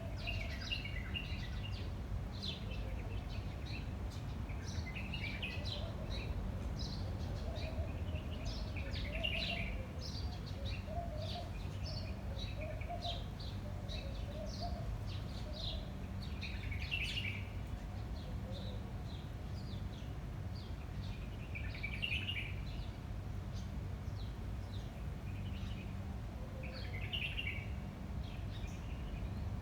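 Several small birds chirping and calling, with many short chirps overlapping and a louder call recurring about every five seconds; a lower warbling call runs through the first half. A steady low rumble of wind lies underneath.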